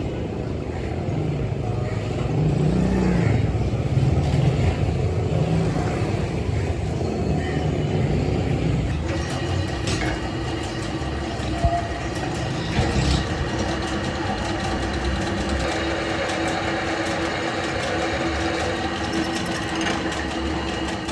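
Machinery running steadily with a continuous rumble; a steady hum joins about nine seconds in, with scattered clicks and knocks.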